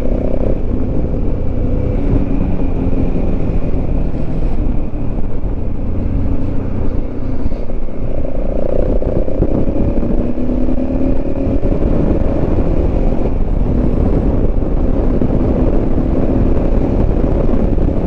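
Motorcycle engine running while riding, its pitch rising and falling with the throttle, over steady wind rush on the microphone.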